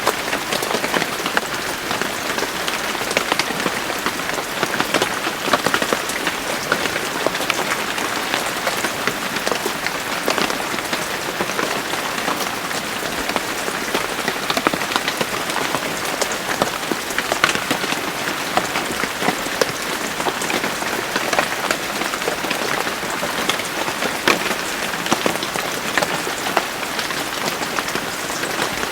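Steady, heavy rain falling on a surface, a constant hiss thick with separate drop hits, with no let-up or change in strength.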